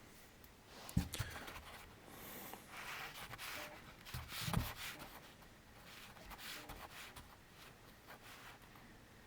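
Handling noises: faint rubbing and scraping, with two light knocks, one about a second in and one around four and a half seconds in.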